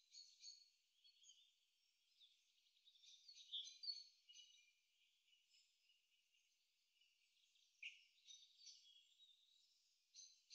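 Faint birdsong: scattered high chirps and short trills, with one brief falling note about eight seconds in.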